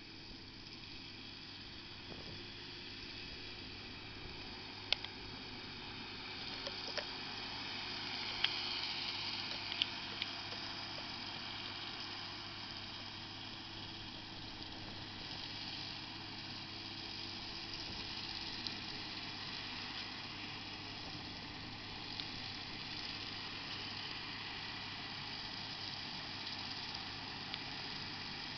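Massey Ferguson 6480 tractor running steadily with a Spearhead rotary topper working behind it, with a few sharp clicks about five to ten seconds in.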